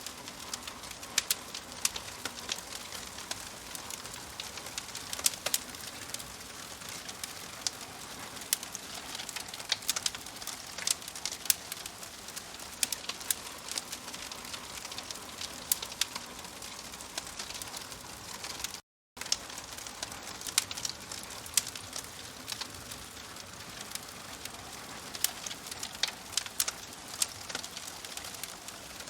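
Campfire crackling: a steady hiss with frequent sharp pops and snaps of burning wood. The sound drops out completely for a split second about two-thirds of the way through.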